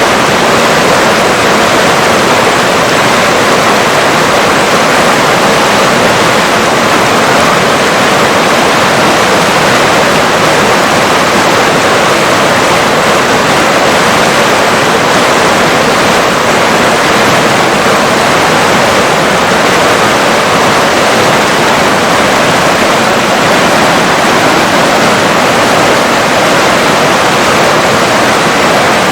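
A river's rushing water: a loud, even rush with no distinct splashes or breaks.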